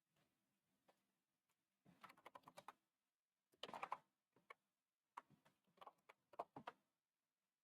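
Faint typing on a computer keyboard, in three short bursts of rapid key clicks.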